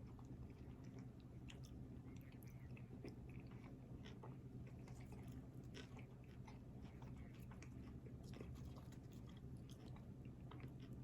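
Quiet close-up chewing of food, heard as many faint, irregular wet mouth clicks, over a steady low hum.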